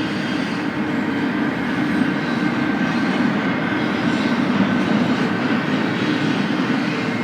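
BNSF freight train rolling past at close range: a steady, even noise of wheels on rail and cars passing.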